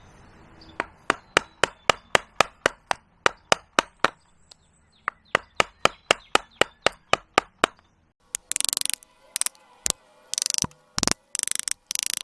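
A mallet striking a carving gouge into wet green wood, sharp taps about four a second in two runs. From about eight seconds in, longer scraping strokes of the tool paring across the wood.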